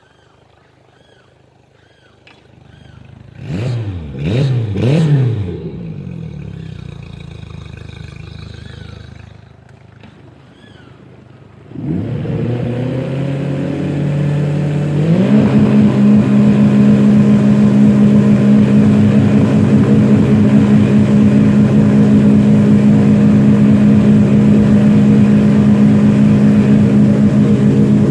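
Vehicle engine blipped twice, then run up and held steady at high revs for about thirteen seconds during a burnout, revs falling away at the very end.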